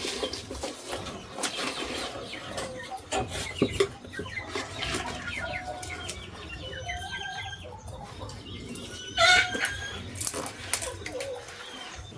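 Chickens clucking, several short calls in a row with one louder call about nine seconds in, among scattered knocks and clicks of handling.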